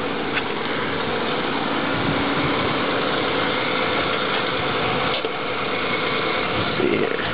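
Nissan Skyline's 2.5-litre twin-cam 24-valve straight-six idling steadily, a little fast because the engine is still warming up from a cold start. There are a couple of faint clicks and a short louder noise near the end.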